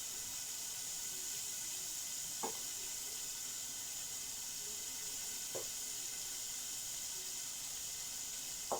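Chicken strips frying in oil, a steady sizzling hiss. Three faint light knocks come about three seconds apart.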